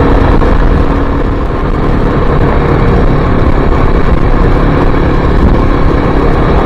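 Kawasaki KLX300 dual-sport motorcycle's single-cylinder four-stroke engine running at a steady pace while riding a dirt trail, with a dense low rumble under the engine note.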